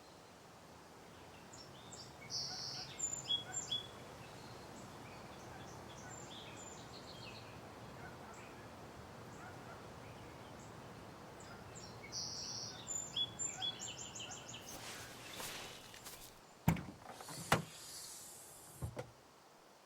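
A songbird twittering in two short bouts about ten seconds apart, over a steady faint outdoor hiss. Near the end come three sharp knocks.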